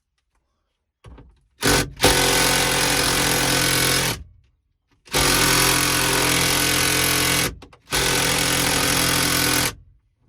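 Impact wrench hammering on a seat belt anchor bolt in three long bursts with short pauses between, without breaking it loose: the bolt is held with blue Loctite.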